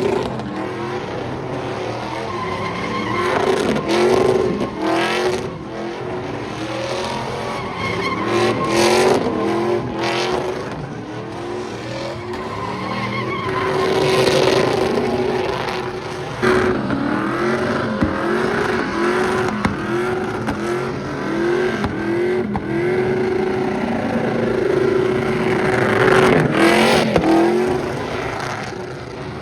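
Truck engines revving in repeated short bursts, a run of them about one a second in the second half, with tyres skidding.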